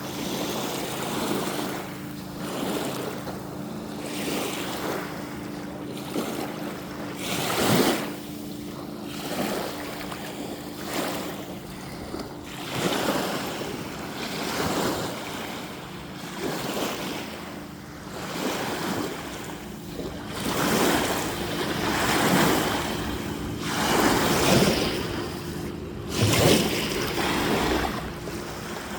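Waves washing in, surging and falling back every second or two, with a faint steady hum underneath.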